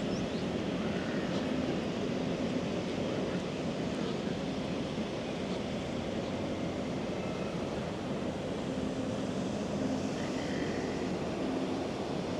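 Steady city street ambience: a rumble of traffic with a faint engine hum that comes and goes.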